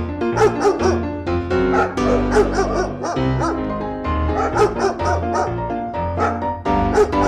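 Background music, with puppies yipping and whimpering in many short, high squeals as they jostle to nurse.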